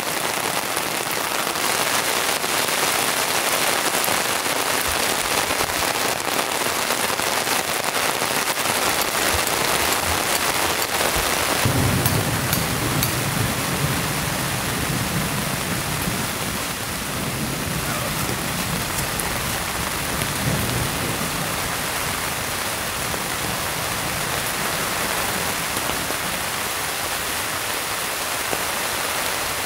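Heavy rain falling steadily. About twelve seconds in, a low rumble of thunder rolls on for around nine seconds before fading back under the rain.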